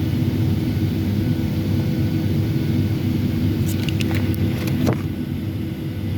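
Steady droning cabin noise inside a Boeing 757-300 airliner, from its engines and airflow, with a few light clicks about two-thirds of the way through.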